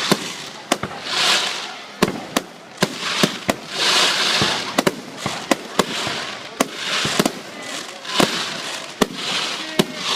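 Fireworks finale: rapid sharp bangs of aerial shells, several a second, over repeated swells of hiss that rise and fade about every second or two.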